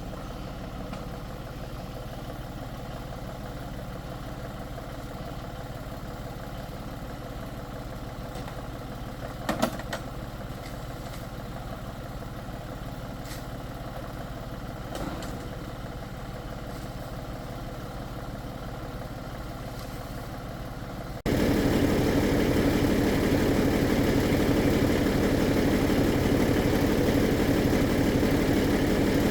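Tractor engine running steadily, with a couple of sharp knocks about ten seconds in. Near the end it abruptly becomes much louder and rougher.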